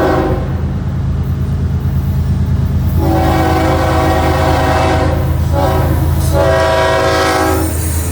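Florida East Coast Railway freight locomotive's horn sounding a chord of several notes at once, over the steady running of its diesel engine. A short blast ends just after the start, then a long blast comes in about three seconds in, and another follows after a brief break and stops shortly before the end.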